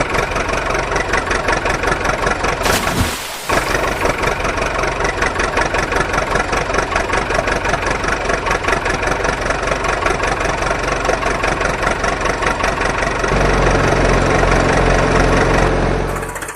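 An engine running with a fast, even chugging pulse. It breaks off briefly about three seconds in, then takes on a heavier low hum in the last few seconds before it fades.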